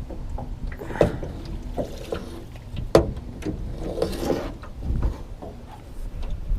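Knocks and scrapes of a small boat's hull and paddle against branches as it is pushed off, with sharp knocks about one second and three seconds in, the second the loudest, and a brief rush of noise near four seconds. Wind rumbles on the microphone throughout.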